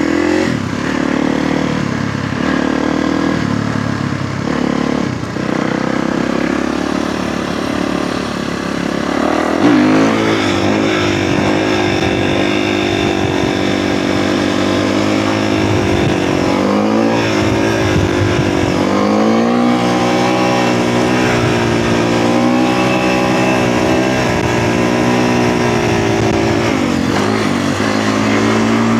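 Kawasaki KX450F single-cylinder four-stroke dirt bike engine under way, heard through a mic inside the rider's helmet. It runs fairly steadily at first, then the revs climb sharply about ten seconds in, and they rise and fall several times after that as the bike accelerates and shifts.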